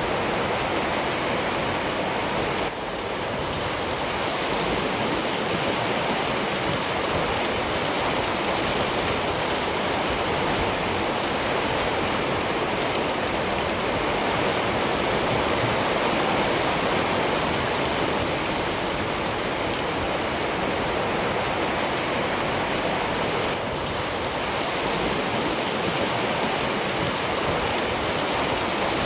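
Steady heavy rain falling, a dense continuous hiss that dips slightly twice.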